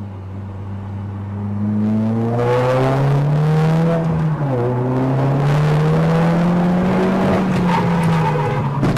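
Car engine accelerating hard, its pitch climbing and the sound getting louder about two seconds in. About four seconds in the pitch drops suddenly, as at a gear change, then it climbs again and eases off near the end.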